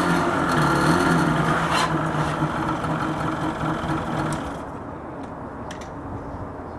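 ATV engine running at varying speed, which dies away about four and a half seconds in. A few light clicks follow.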